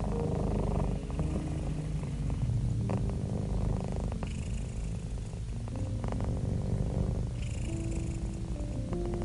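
Domestic cat purring steadily, a low continuous rumble at a rate of about 25 pulses a second.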